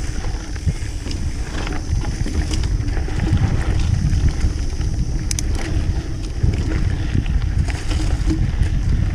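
Wind buffeting and ride rumble on a mountain bike's on-board camera as it rides a dirt trail, with scattered small clicks and rattles.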